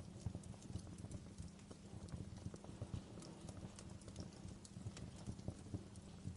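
Fire in a fireplace crackling, with many small irregular pops and snaps over a steady low rumble.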